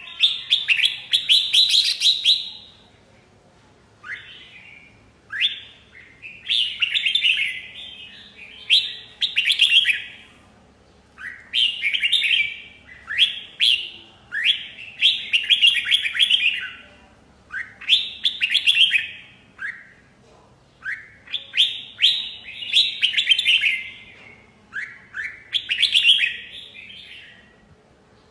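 Red-whiskered bulbul singing: loud phrases of quick, bright chirping notes, each phrase a second or two long, repeated with short pauses.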